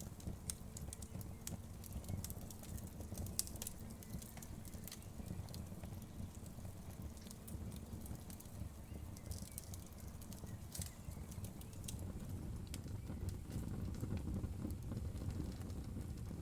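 Fireplace fire crackling: irregular sharp pops and snaps over a low steady rumble of the flames, which grows a little louder near the end.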